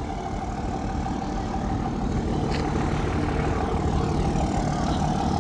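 A truck engine running at low speed, slowly growing louder as it comes closer.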